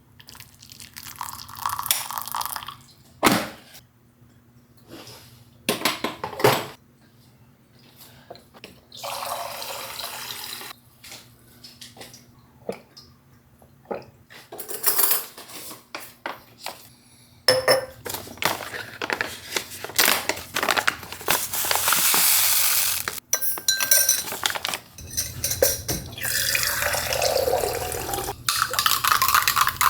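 Household sounds at a kitchen sink: dishes and cutlery clinking and knocking, then tap water running in several stretches.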